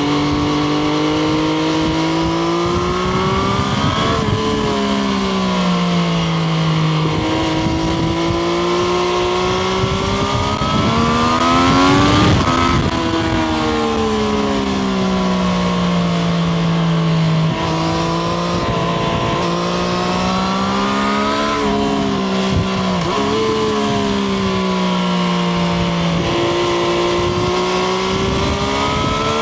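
Triumph Street Triple RS 765 cc inline-three engine pulling under throttle, heard from on the bike; its pitch climbs through the revs and drops sharply at gear changes several times, with slower falls as it eases off in between.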